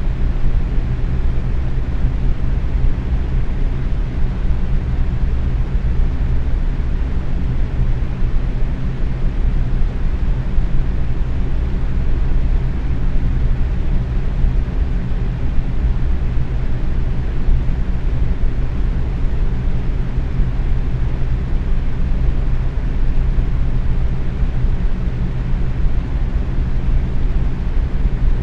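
Box fan running steadily at medium speed: an even whooshing rush of moving air, heaviest in the low end, with a faint motor hum underneath.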